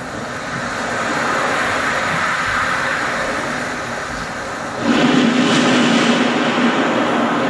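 A steady rushing, rumbling noise from the live sound accompaniment, which swells suddenly about five seconds in.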